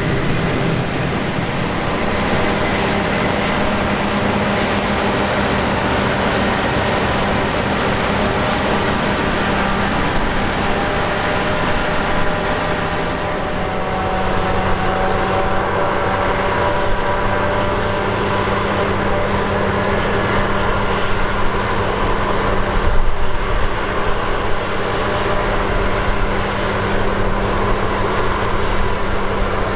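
Heavy diesel harvest machinery running steadily at work. Several whining tones drift slowly in pitch over a steady low engine note, growing a little louder and rougher in the second half.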